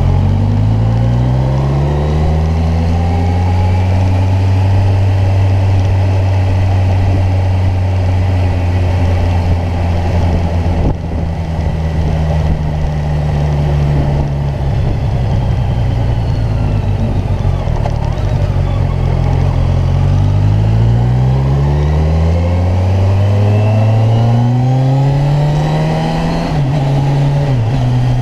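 Kawasaki Ninja 1000's inline-four engine under way: it pulls up in pitch at the start, holds a steady cruise, then pulls up again about two-thirds of the way through before dropping sharply near the end.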